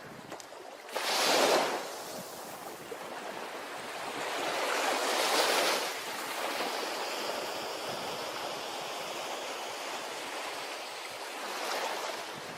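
Ocean waves breaking on a beach: a sharp wave crash about a second in, a longer swelling wash a few seconds later, and a smaller one near the end, over a constant hiss of surf.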